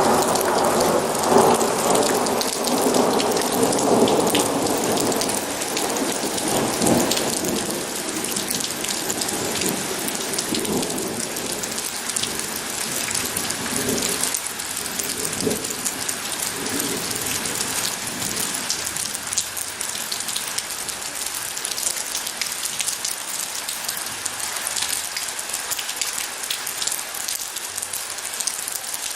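Steady rain falling, with a long roll of thunder that is loudest at the start, rumbles on and dies away about two-thirds of the way through, leaving only the rain.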